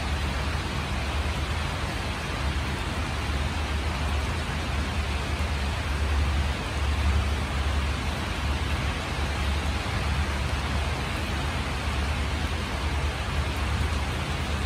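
Steady rain falling, a continuous even hiss, with a constant low rumble underneath.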